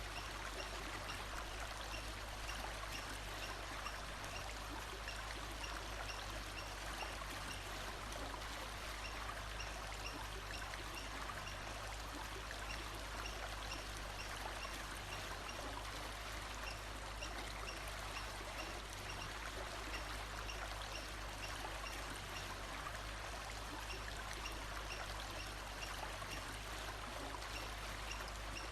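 Steady rushing and trickling of a flowing stream, unchanging throughout, with faint short high notes repeating at an even pace behind it.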